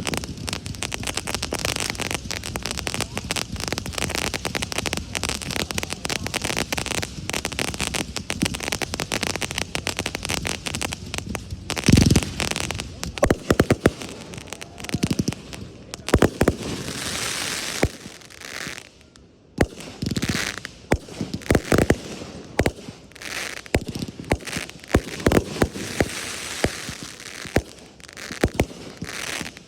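Aerial fireworks going off: a dense, rapid crackle for about the first twelve seconds, then a loud boom, then separate shell bursts mixed with stretches of hissing crackle.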